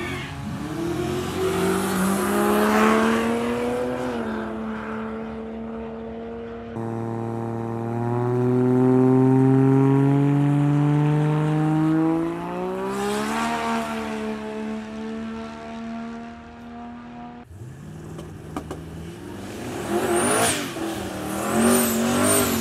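Car engines accelerating hard, rising in pitch through long pulls, in several clips cut together.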